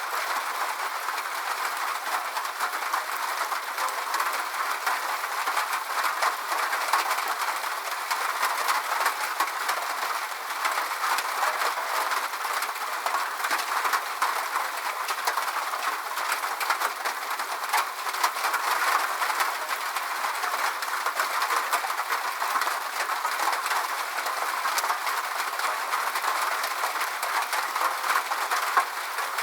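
Steady rain: a dense, even hiss of falling drops with many small individual taps through it, and no deep rumble underneath.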